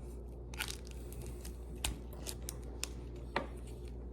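Crisp wafer bar being bitten and chewed: a handful of sharp, irregular crunches over a steady low hum.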